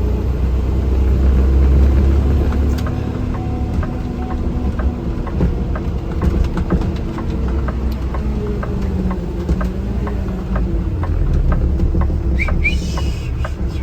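Vehicle engine and road noise heard from inside the cab while driving on snowy roads: a steady low rumble with scattered clicks and knocks. Near the end come a couple of short, high, whistle-like sounds.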